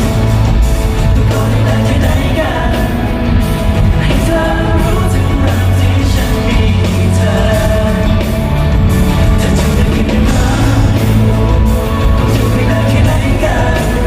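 Live band playing a song with a lead singer over a steady drumbeat.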